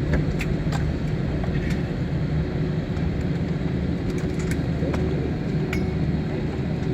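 Steady low rumble and hum inside an airliner cabin, with the jet on the ground after landing. Scattered small clicks and rattles sound through it.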